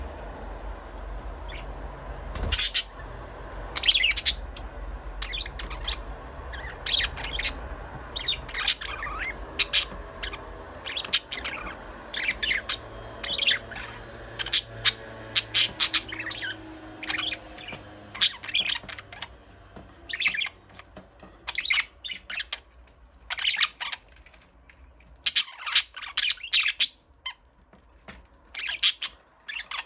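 Budgerigars chirping and squawking: many short, sharp high-pitched calls at irregular intervals, over a faint low hum.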